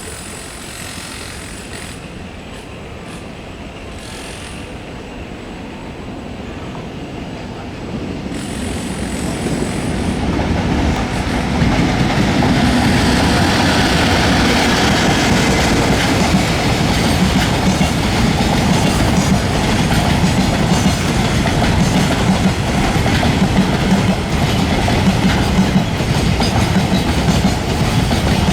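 Freight train hauled by an EF64 electric locomotive passing through a station: it grows louder over the first ten or so seconds as it approaches, then the steady rumble and clickety-clack of the freight wagons' wheels over the rail joints runs on.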